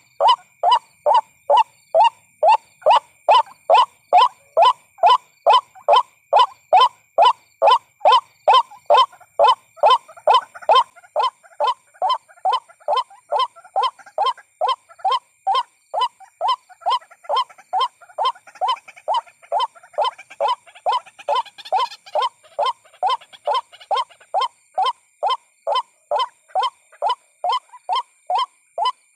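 White-breasted waterhen calling over and over in an even, monotonous rhythm of about two short calls a second: the call played as a lure to draw waterhens in.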